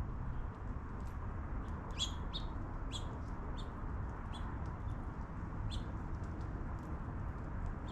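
Small birds chirping: short, high chirps that come scattered, a cluster about two to three seconds in and more later, over a steady low rumble.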